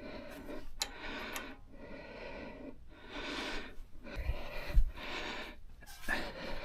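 Brake bleeding: repeated hissing, sputtering spurts, about one a second, as air-laden brake fluid is pushed out of a caliper bleeder, a sign there is still air in the line. Two short low thumps come a little past the middle.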